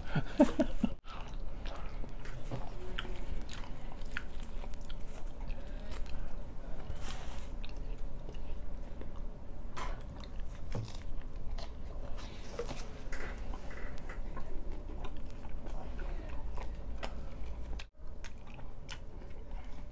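Close-up chewing and biting of paratha flatbread with egg: wet mouth noises with small crunches and clicks, over a low steady hum.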